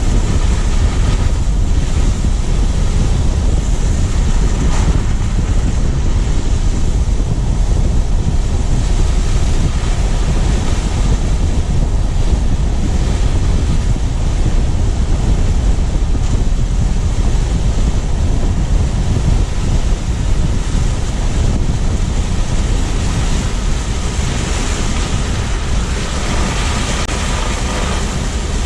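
Steady wind rumble buffeting a GoPro's microphone on a moving car, mixed with tyre and road noise. It eases slightly near the end.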